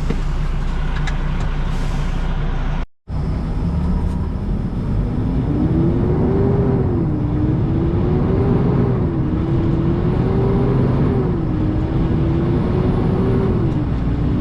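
Diesel engine of a semi truck running under load. Its pitch climbs and drops back four times, as the truck pulls away through the gears, then holds steady near the end.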